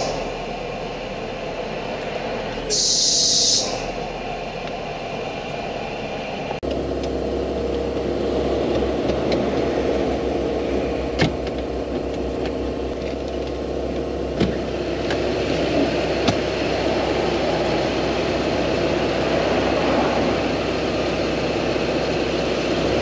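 Mitsubishi Delica van engine idling, with a steady low hum and mechanical running noise that grow fuller about a third of the way in, while its air-conditioning compressor is checked for an abnormal noise. A short hiss about three seconds in and a few sharp clicks later.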